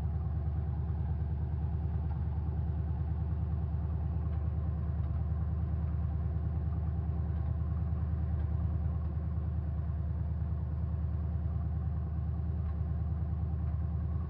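Truck engine idling steadily, with an even low pulse throughout.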